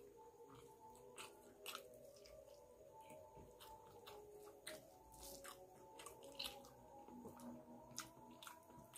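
Faint, close-miked chewing and mouth clicks of someone eating rice and curry by hand, with soft sounds of fingers mixing rice on a steel plate.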